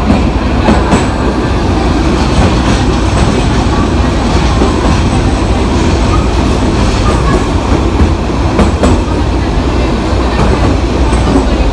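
Narrow-gauge Budapest Children's Railway train running along the track: a steady rolling noise with a few sharp clicks of the wheels over rail joints.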